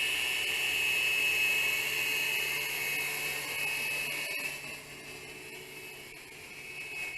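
Small electric motors and counter-rotating rotors of an FQ777 Explorer 610 mini helicopter in flight: a steady high whine with a fainter hum underneath. It drops noticeably in level about four and a half seconds in.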